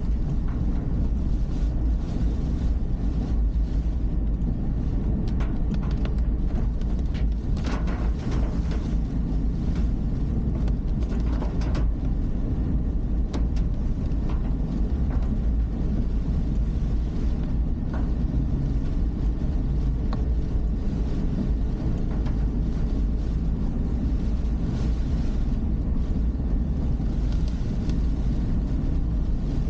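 Car driving, heard through a dashcam microphone inside the car: a steady low rumble of engine and road noise, with a few faint clicks and knocks.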